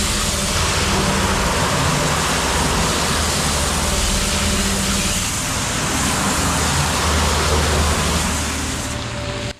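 Water hose spraying concrete off a concrete mixer truck, a steady loud hiss, over the truck's diesel engine running. The spray and most of the noise cut off suddenly at the end.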